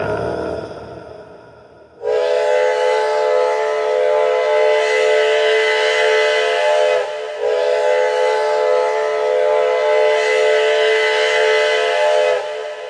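Steam locomotive chime whistle blowing two long blasts of a steady multi-tone chord, each about five seconds, with a brief break between them. Before the first blast, a fading rumble dies away.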